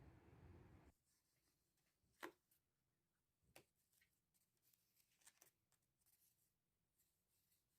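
Near silence: a low rushing noise cuts off abruptly about a second in, leaving room tone with a few faint scattered clicks or rustles.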